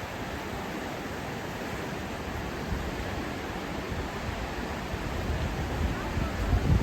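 Steady rushing of floodwater in the swollen Wien river, with a low rumble swelling near the end.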